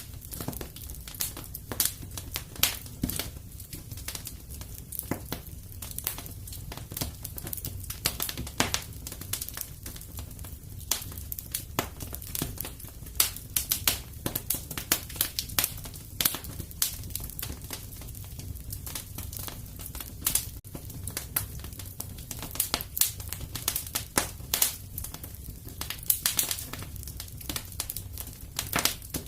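Wood fire burning in a fireplace: a steady low rumble with irregular crackles and pops, some sharp and loud, several each second.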